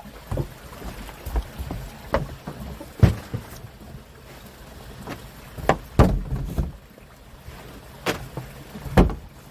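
A series of sharp knocks and thumps on a fishing boat, about eight at irregular intervals, over a low rumble.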